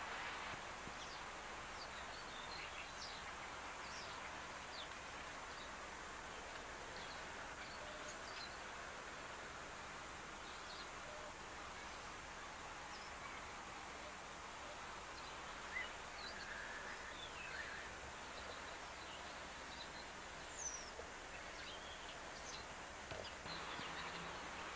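Scattered short bird chirps over a steady background hiss.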